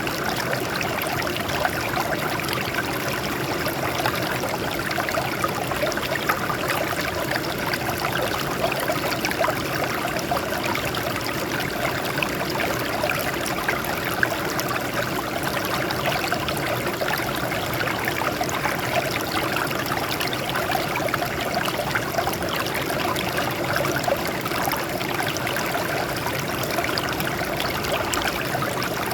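Water flowing and splashing steadily over rocks: a continuous stream with many small trickling splashes.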